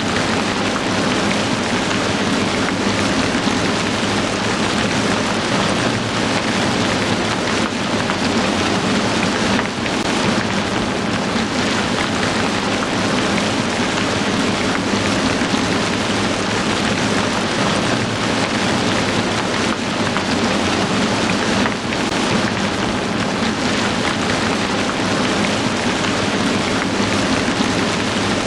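Heavy rain falling steadily: a dense, even downpour hiss with no breaks.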